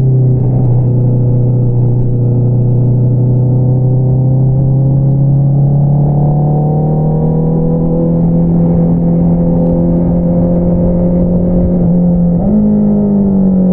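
2022 Honda CBR650R's inline-four engine running through an Akrapovič single-outlet exhaust under steady throttle, its pitch climbing slowly as revs build. About twelve and a half seconds in, the note jumps up sharply and then eases back down.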